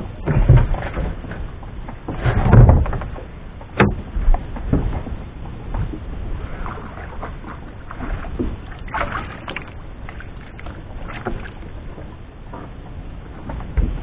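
Irregular knocks and thumps on a small fishing boat, with water noise under them; the loudest thumps come about half a second and two and a half seconds in, and a sharp click near four seconds.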